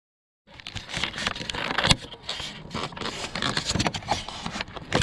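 Losi RZR Pro R RC side-by-side driving over rough ground: a dense clatter of crunching, scraping and knocking from the tyres and chassis, with a sharp knock just before two seconds in. It starts abruptly about half a second in.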